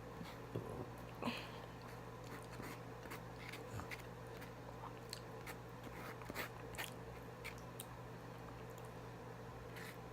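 Close-miked eating: chewing and biting with scattered soft mouth clicks and small crunches, over a faint steady electrical hum.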